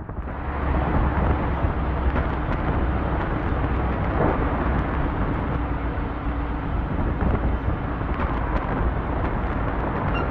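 Steady low engine rumble with outdoor traffic and road noise from vehicles on a snowy street.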